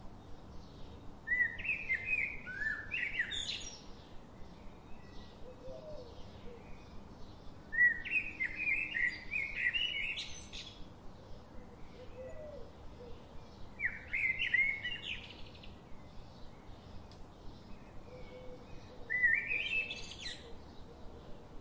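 A songbird singing four short phrases of quick chirping notes, spaced about six seconds apart, over faint regular ticks about twice a second.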